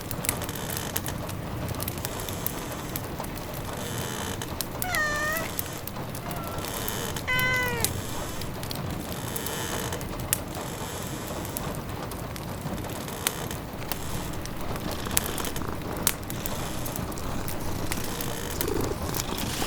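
A domestic cat meows twice, two short bending calls a couple of seconds apart. Underneath is a steady hiss of rain with the sharp pops of a wood fire crackling.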